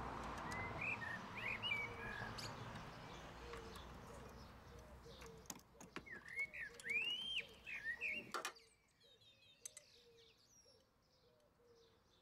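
Small birds chirping in short rising and falling calls, in two spells, with a few faint isolated clicks over a soft background hiss that drops away about two-thirds of the way through.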